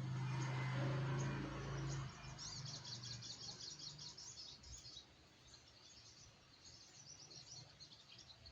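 A small sogok ontong bird giving rapid high chittering calls in two runs, the first about two seconds in and the second near the end. A low steady hum is the loudest sound in the first two seconds, then stops.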